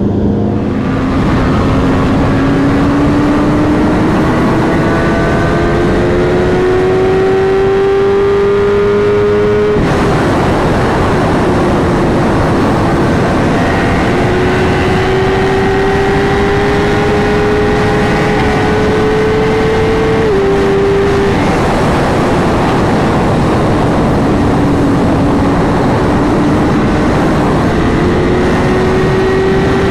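Sport motorcycle engine running at speed under wind noise, its pitch climbing slowly and steadily for several seconds at a time, with a small drop in pitch about twenty seconds in and a dip and rise near the end.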